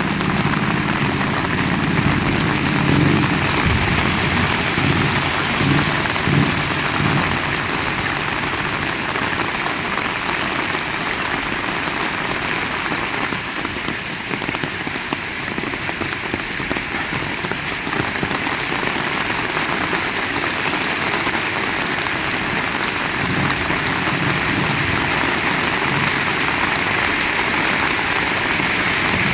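Heavy rain falling steadily. A low engine hum shows under it in the first several seconds and again faintly near the end.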